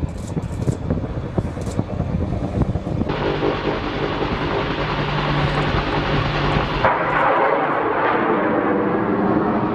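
Attack helicopter running, a continuous turbine and rotor noise that changes abruptly about three seconds in and again near seven seconds.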